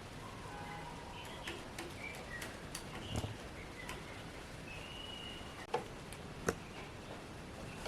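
Birds chirping with short, thin whistled notes, over a few light clicks and two sharper knocks about three-quarters of the way in.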